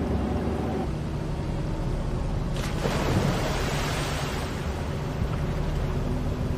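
A motor running steadily, with a burst of hissing from about two and a half seconds in.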